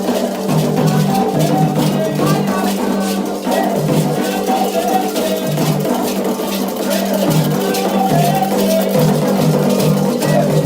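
Candomblé ritual music: hand drums beating a steady repeating pattern, with rattles and sung melody over them.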